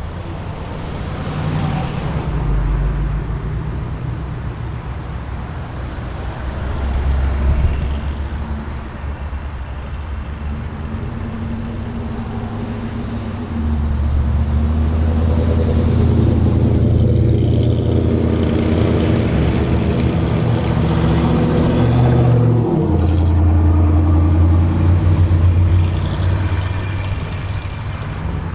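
Car engines running close by at low speed, a deep steady hum that shifts in pitch every few seconds and grows louder about halfway through.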